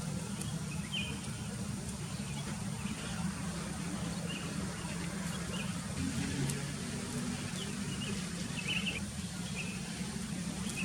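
Sooty-headed bulbuls giving short, scattered chirps over a steady low hum.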